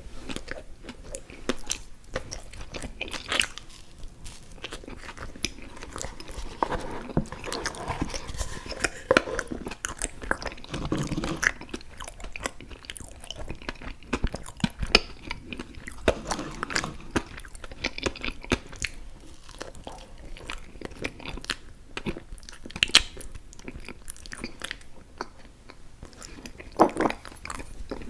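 Close-miked eating of sweet desserts: repeated bites and chewing with irregular crunchy clicks and crackles.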